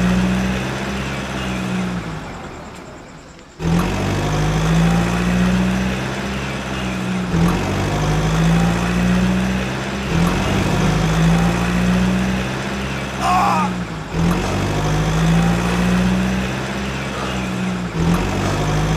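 A vehicle engine running at a steady pitch, the sound restarting in sections every three to four seconds. It fades down about two seconds in and cuts back in sharply just before four seconds.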